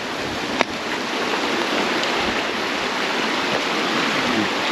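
Brook water rushing steadily over rocks, an even hiss of flowing water. A single sharp click sounds about half a second in.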